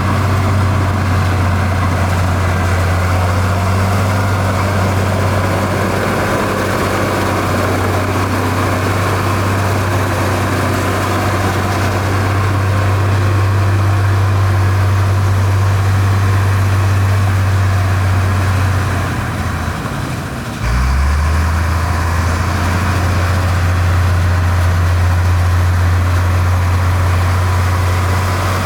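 Heavy diesel engine of road-building machinery running steadily with a deep hum. It dips briefly about two-thirds of the way through, then comes back abruptly at a slightly different pitch.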